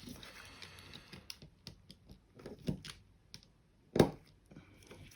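Small irregular clicks and taps of a screwdriver and its bit against the plastic mouse shell and circuit-board screws, with one louder knock about four seconds in.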